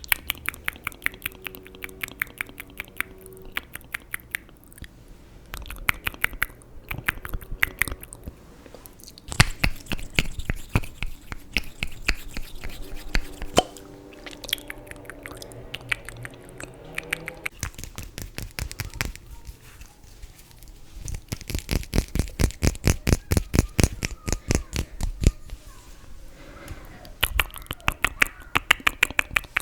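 Close-miked ASMR clicking and tapping in quick runs of several sharp clicks a second, with pauses between runs and the busiest stretches about a third of the way in and again past the middle.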